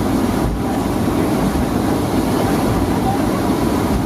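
Cabin noise of a Boeing 757-200 taxiing after landing: a steady low rumble from the airframe rolling on the ground and the Rolls-Royce RB211 engines at idle.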